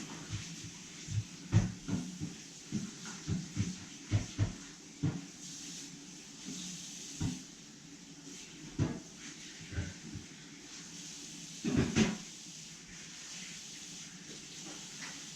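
A run of irregular knocks and thuds, as of hard objects being handled and set down: several a second at first, then a few spaced out, the heaviest about twelve seconds in, over a faint steady hiss.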